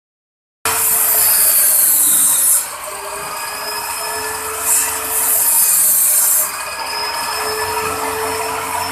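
Power saw of a wood-cutting machine running with a steady whine, cutting into wood twice: a loud hissing cut from just under a second in to about two and a half seconds, and another from about five to six and a half seconds.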